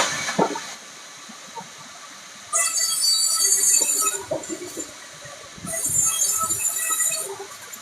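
Woodworking machine cutting rubberwood: two cuts of about a second and a half each, starting a little over two seconds in and again near the middle, each a loud hissing whine over the machine's quieter running between them.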